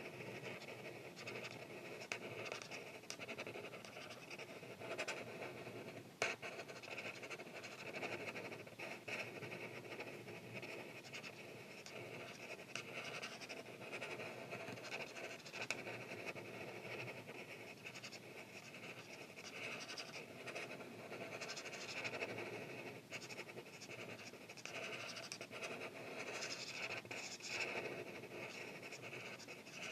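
Art marker tips rubbing on paper in continuous back-and-forth colouring strokes, with a sharp click about six seconds in.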